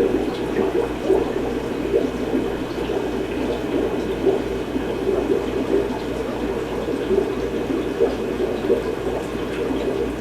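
Aquarium filtration water bubbling and splashing steadily, with a low steady hum underneath.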